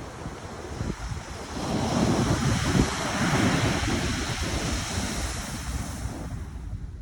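Pacific Ocean surf: a wave breaks and washes in, swelling about a second and a half in and loudest for a few seconds, then fading away near the end. Wind rumbles on the microphone underneath.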